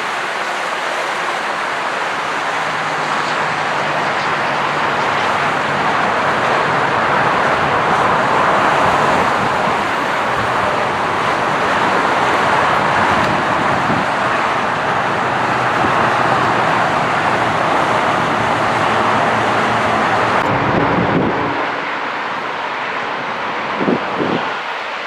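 Jet aircraft passing close: a loud, steady rush of engine noise that drops away about 21 seconds in.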